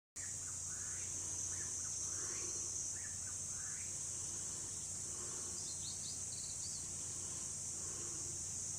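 A steady, high-pitched insect chorus with short bird chirps over it, several in the first three seconds and a few more later.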